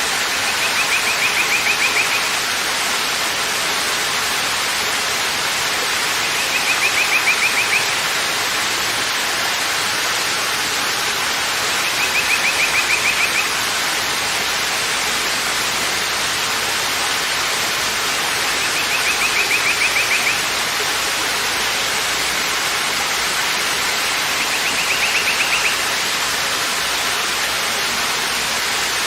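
Waterfall: a steady rush of falling water. A short, high, fluttering trill rises above it about every six seconds.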